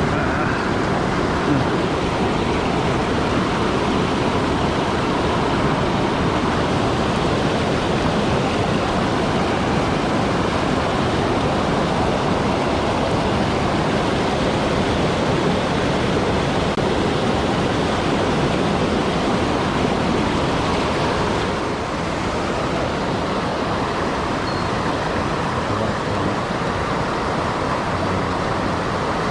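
Mountain stream rushing steadily over rocks, a constant water noise that eases slightly about two-thirds of the way through.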